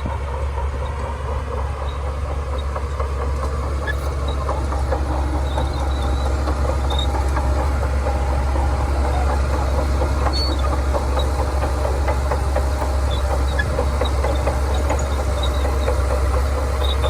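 Shantui crawler bulldozer's diesel engine running steadily under load, with the tracks clattering continuously as it pushes sand.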